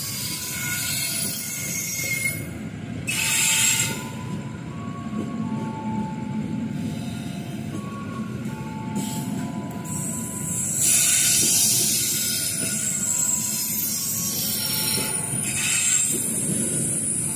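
Passenger train rolling past at close range, a steady rumble of wheels on rail. Loud bursts of high-pitched noise come about 3 seconds in, for a few seconds from about 10 seconds, and again near the end.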